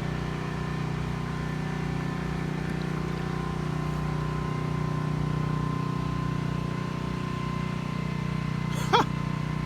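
A small engine running steadily at a constant speed: an even, unbroken hum with a strong low tone.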